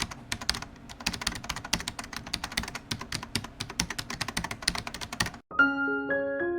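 Rapid typing on a keyboard, a dense run of quick clicks that stops abruptly about five seconds in. Piano music begins right after.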